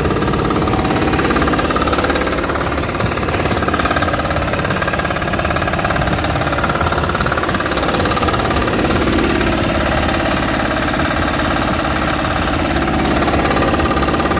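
Engine of an AC-10 farm machine running steadily, with a fast, even chugging and shifting mechanical humming over it.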